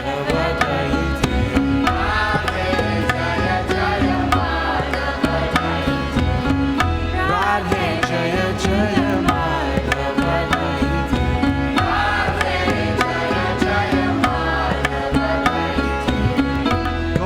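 Devotional kirtan music led by tabla drumming, with regular percussive strikes and a wavering melodic line over it.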